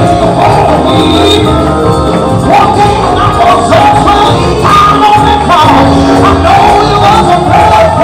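Loud live church band playing an upbeat gospel song, with a melody line over a steady driving beat and bass.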